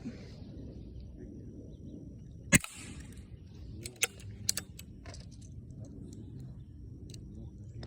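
A single sharp shot about two and a half seconds in, trailed by a brief hiss, followed by a few lighter clicks over a steady low background rumble.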